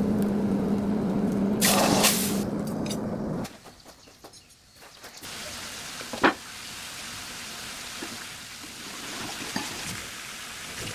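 A motor hums steadily, with a brief loud burst of grinding noise about two seconds in, then cuts off about three and a half seconds in. A quieter steady hiss and a single sharp click follow.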